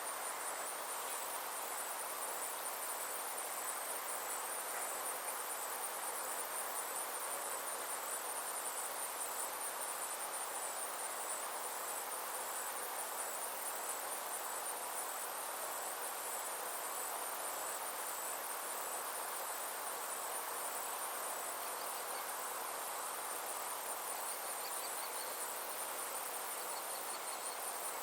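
Summer insects chirring in a steady, high-pitched, rapidly pulsing trill over a soft, even background hiss.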